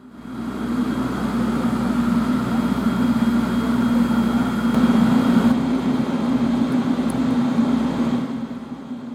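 A vehicle running steadily, a loud low hum under a wash of noise that starts suddenly and dies down near the end.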